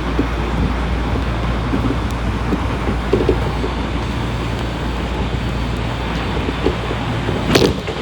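Running sound heard inside a motor car of an Odakyu 1000 series electric train: a steady rumble of wheels on rail with a low motor hum. A single sharp knock comes near the end.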